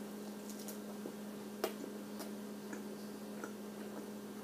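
Faint chewing of a chicken McNugget: a few soft, scattered mouth clicks and smacks, the loudest about a second and a half in, over a steady low hum.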